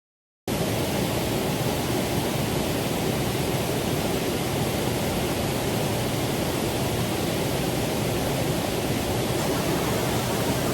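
Steady rushing of a mountain stream's water. It cuts in suddenly about half a second in and stops abruptly at the end.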